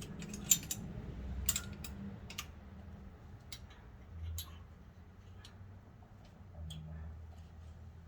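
Light metal clicks and taps of brake pads and caliper hardware being handled and fitted. There are several sharp clicks in the first two and a half seconds, then fainter, sparser ones.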